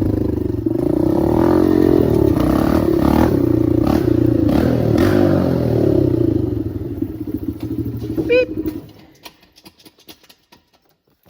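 Dirt bike engine running and revving up and down at low speed, then dying away and shutting off about nine seconds in, followed by a few faint clicks and rattles.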